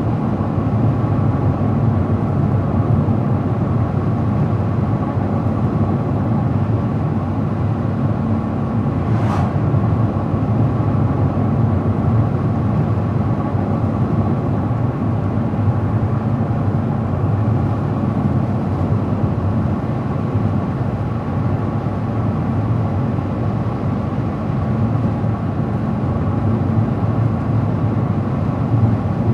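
Steady road and engine noise of a car driving at speed, a low rumble heard from inside the car, with a brief faint tick about nine seconds in.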